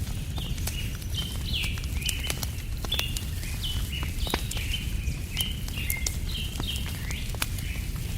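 Birds chirping busily in short, falling calls, several a second, over the sharp crackle and pop of a wood fire and a steady low rumble.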